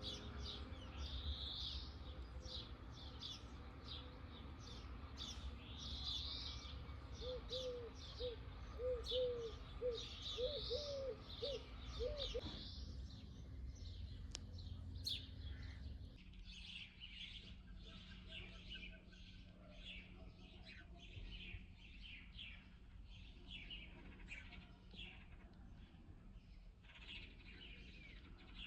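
Several small birds chirping and singing in quick overlapping calls. A run of lower, rounded notes repeats for a few seconds about a third of the way in. Under it is a low rumble that stops about halfway through.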